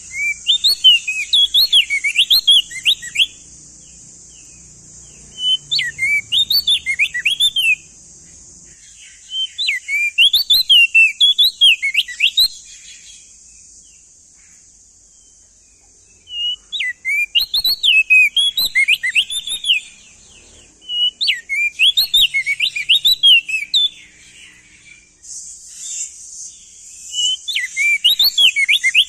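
Crested dark-eye (opior jambul) male singing loudly: about six bouts of rapid, jumping whistled notes, each lasting two to three seconds with short pauses between. A steady high hiss runs underneath.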